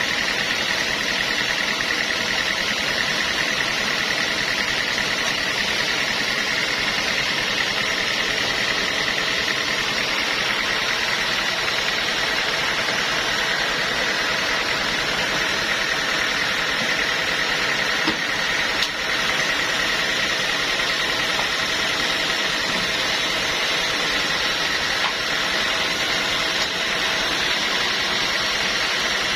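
Sawmill machinery running steadily, a continuous mechanical noise with a steady high whine.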